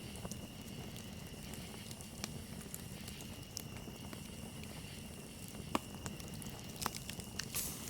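Campfire crackling, with scattered sharp pops over a low steady bed; the loudest pop comes about three quarters through, and a short run of pops with a brief hiss comes near the end. A steady high cricket trill runs underneath.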